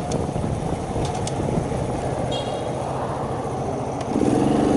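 Wind buffeting the microphone over the small engine of a Shineray 50cc motorcycle running on the move, with a steadier engine note coming through near the end.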